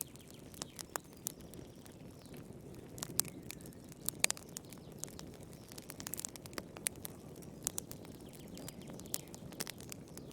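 Wood fire crackling and popping irregularly over a low steady rumble of burning, with a few sharper pops among many small snaps.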